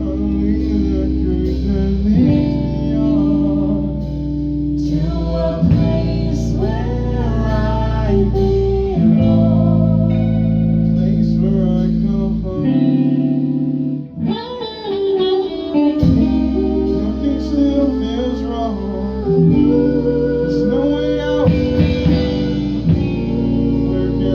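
Band rehearsing a blues-rock song, led by guitar over a bass line. The low end drops out briefly about 13 seconds in, then comes back.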